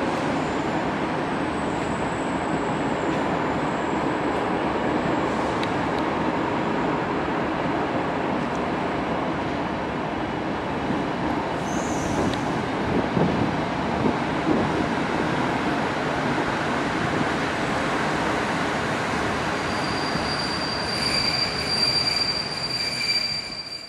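Passenger train carriage rolling through station trackwork, a steady rumble of wheels on rail heard from inside the coach. Thin high wheel squeal briefly about halfway and again over the last few seconds.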